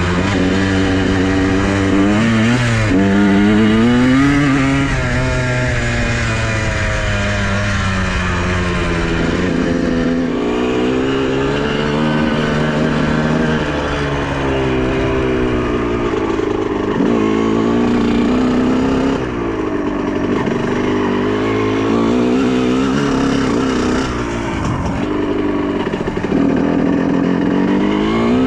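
Honda CR125R two-stroke single-cylinder engine under way, revving up and falling back again and again as the throttle is worked, its pitch rising and dropping throughout.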